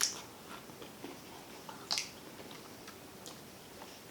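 Close-miked eating of a shrimp and snow crab seafood boil: two sharp snaps about two seconds apart, with faint chewing and small clicks between them.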